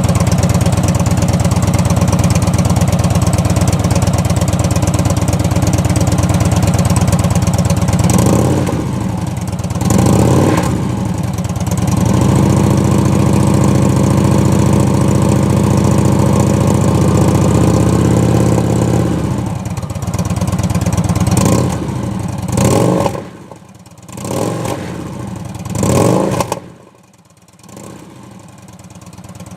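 2013 Victory Vision V-twin running through D&D mufflers on stock headers, baffles in but the packing removed. It idles, is blipped twice, is held at higher revs for several seconds, then gets a few more sharp blips before settling back down near the end.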